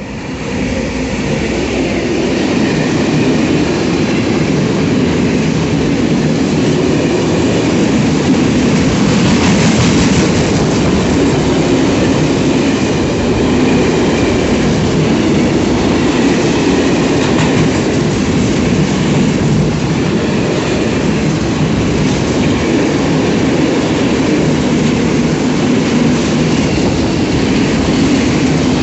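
Freight train passing: a loud, steady rolling of wagons on the rails that builds up in the first second or two and then holds throughout.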